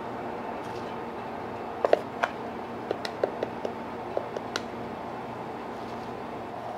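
Steady hum with a run of about a dozen short clicks and light ringing taps between about two and five seconds in: the sound of pastry-kitchen work with tools and containers.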